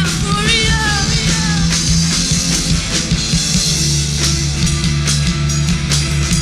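Rock band playing loud: distorted electric guitar, bass and drum kit with crashing cymbals, and a vocal or lead-guitar line that trails off about a second and a half in.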